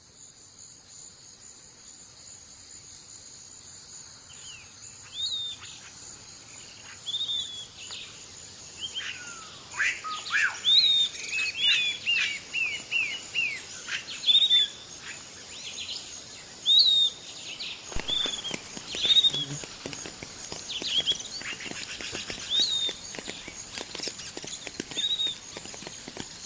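Several birds chirping and calling in short, high notes that rise and fall, growing busier from about ten seconds in, over a steady high-pitched insect drone. Faint light pattering and clicking join in about two-thirds of the way through.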